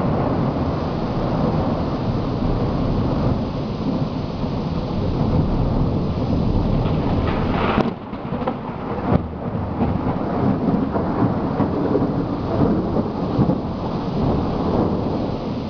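Thunderstorm: long rolling thunder rumbling over steady rain, with a sharp crack about eight seconds in.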